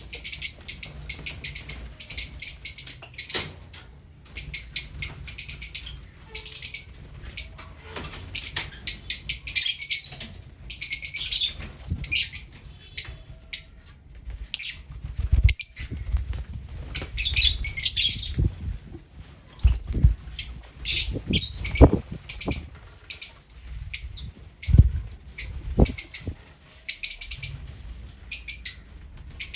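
Lovebirds chattering in rapid runs of high, shrill chirps, with wing flutters and several sharp low thumps in the second half.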